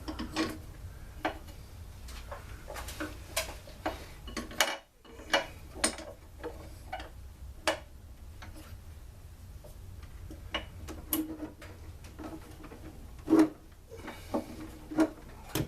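Irregular clicks, taps and knocks from tools and parts of a two-stroke blower engine being handled during disassembly, with a louder knock about thirteen seconds in.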